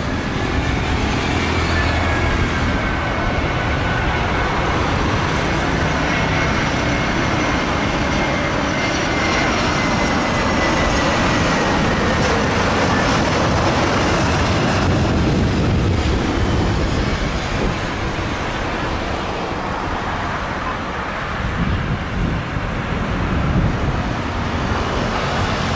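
Airbus A330 jet airliner's engines during landing: a steady loud rush with a high whine that slowly falls in pitch over the first half, then settles into a lower rumble.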